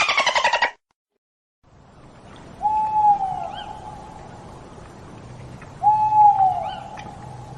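Two clear, single-pitched animal calls about three seconds apart, each lasting about a second and dropping in pitch at its end, over a faint outdoor background. A fast pulsing animal call cuts off less than a second in, followed by a second of silence.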